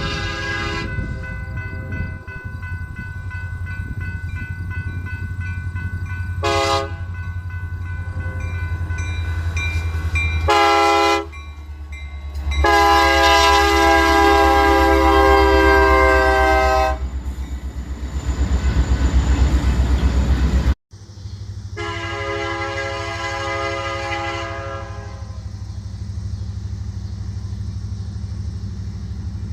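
BNSF diesel locomotive horn sounding a chord in repeated blasts: faint at first, then short blasts at about six and eleven seconds, and loud long blasts at about thirteen to seventeen and twenty-two to twenty-five seconds. A steady low rumble of the passing train runs underneath.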